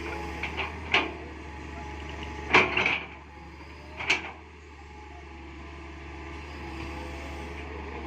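Excavator engine running steadily, with several sharp knocks and clanks: a few in the first second, the loudest cluster about two and a half seconds in, and one more about four seconds in.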